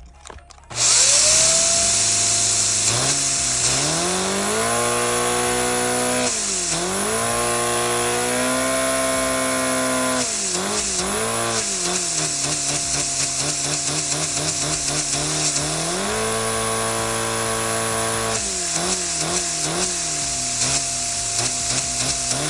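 Lego vacuum engine running on high power from a vacuum cleaner's suction. It gives a loud, steady rushing hiss with a motor whine whose pitch rises and falls several times as the engine's speed changes. It starts about a second in.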